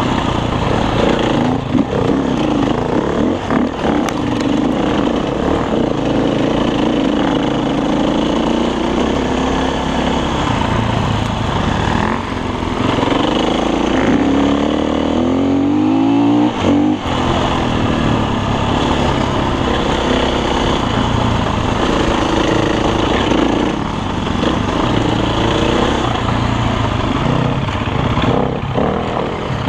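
Dirt bike engine running hard on a trail ride, the engine note rising and falling with the throttle. About halfway through the revs climb steadily and then drop sharply.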